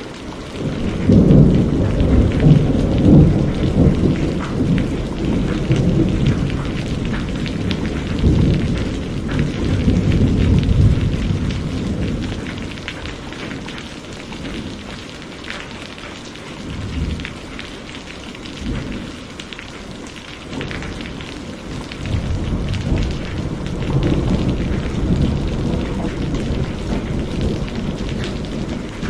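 Steady rain with rolling thunder. A long, loud rumble breaks about a second in, swells again and dies away about halfway through, and a softer rumble rolls in near the end.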